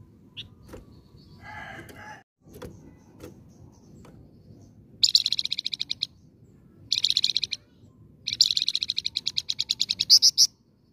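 Flamboyan songbird singing: a few soft calls, then three fast trills of rapidly repeated high notes, the last the longest at about two seconds.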